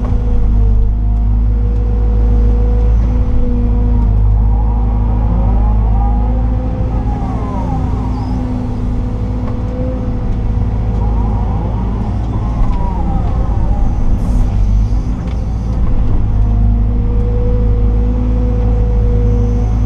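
Liebherr R926 excavator's diesel engine running steadily under load, heard from inside the cab, with a steady drone and whines that rise and fall in pitch through the middle of the stretch as the machine works.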